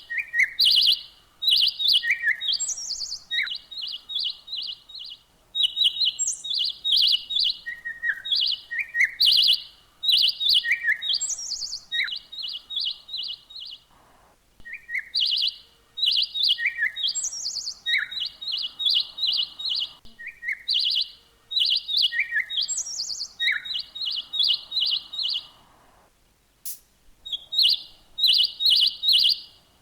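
Birdsong: phrases of rapid, evenly repeated short high chirps, mixed with short down-slurred lower notes and an occasional rising higher note. The song pauses briefly about halfway through and again near the end.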